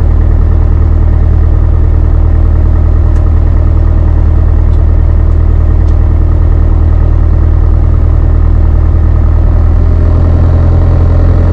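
Beechcraft Sundowner 180's four-cylinder Lycoming piston engine idling steadily, a loud, even drone.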